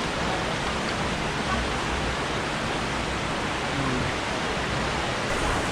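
Rushing water making a steady, even noise with no breaks or changes.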